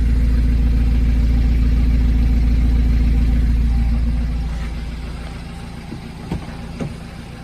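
BMW 328xi's straight-six engine idling steadily after a cold start. About four and a half seconds in its sound falls away to a much quieter hum, and two short sharp knocks follow near the end.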